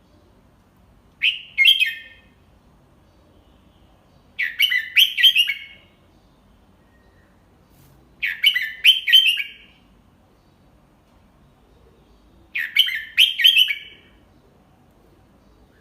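Red-whiskered bulbul singing: four short, clear song phrases about four seconds apart, each a quick run of a few warbled notes, a model song for young bulbuls to copy.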